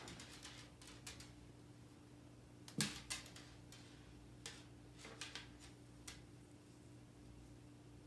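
Scattered soft taps and scuffles of a cat playing with a string, with one sharper knock about three seconds in, over a steady low hum.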